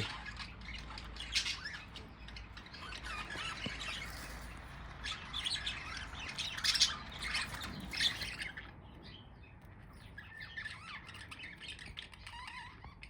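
A flock of budgerigars chattering, with many short squawks and chirps, busiest for the first eight seconds or so and then thinning to fewer, fainter calls.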